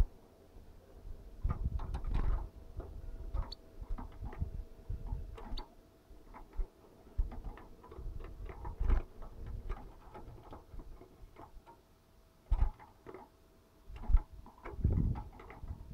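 Irregular light clicks and taps with a few dull knocks, from a caged goldfinch moving about among sunflower seeds and husks; no song.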